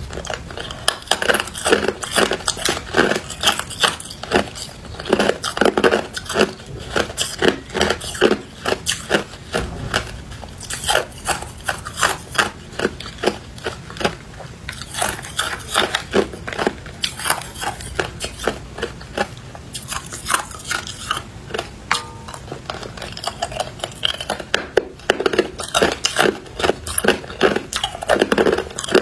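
Ice being bitten and chewed close to the microphone: a dense run of crisp crunches and crackles, several a second, as the pieces are broken between the teeth.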